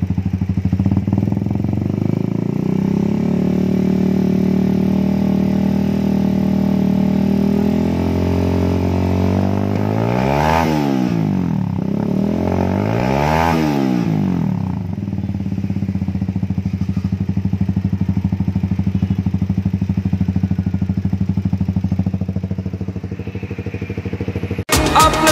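Benelli Evo 200 motorcycle idling through an Audey Steel GP full-system stainless steel exhaust. It is revved twice, about three seconds apart, each rev rising and falling back to idle. Music cuts in abruptly near the end.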